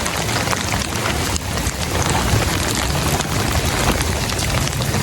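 Heavy rain pouring steadily, with many sharp drop hits close by and a low rumble underneath.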